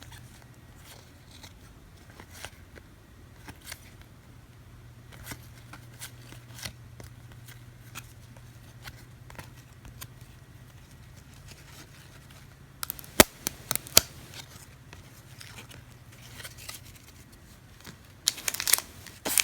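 Trading cards being handled and flipped one by one, giving scattered soft clicks and a couple of sharper snaps, then a foil pack wrapper crinkling near the end. A low steady hum runs underneath for most of it.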